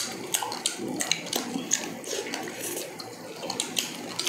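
Eating sounds: wet chewing and lip smacking with many sharp, irregular clicks, as roast chicken and grilled pork are torn apart and chewed by hand.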